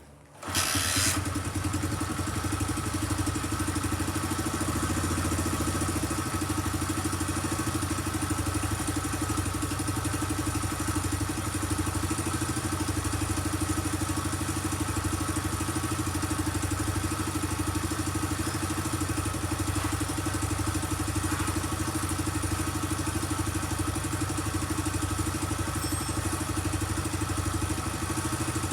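Honda Benly CL90's small four-stroke single-cylinder engine catching about half a second in, then idling steadily.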